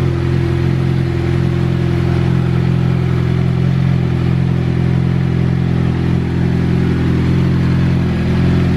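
Vehicle engine idling steadily, close by, with an even, unchanging pitch.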